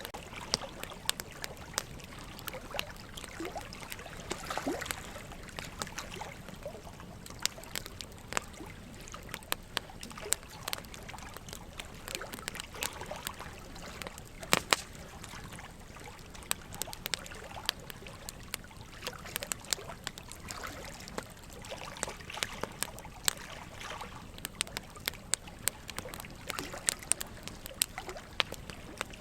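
Wood fire crackling with frequent sharp pops, one louder pop about halfway through, over a steady trickle of running water.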